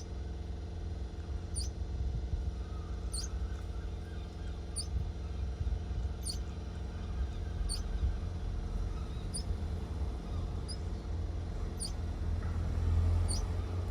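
A small bird chirping: a short, very high call repeated evenly about every second and a half, over a steady low rumble.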